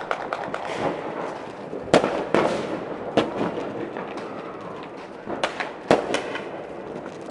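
New Year fireworks and firecrackers going off: a steady run of crackling and pops, with louder single bangs about two seconds in and again near six seconds.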